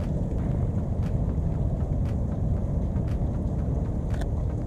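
Steady low rumble of wind buffeting the microphone, with faint ticks about once a second.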